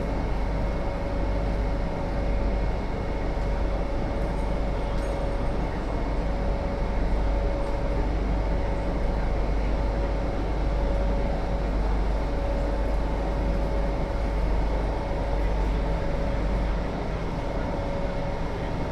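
Steady rumble and hum inside an MTR South Island Line S-train car, with a held mid-pitched tone over it.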